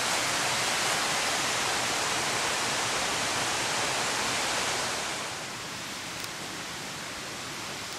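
Small mountain creek rushing and splashing over rocks, a steady water noise that becomes quieter about five seconds in.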